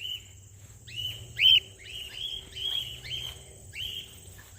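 Cockatiels giving a run of short, arched contact calls back and forth, about eight in a row, the loudest about one and a half seconds in.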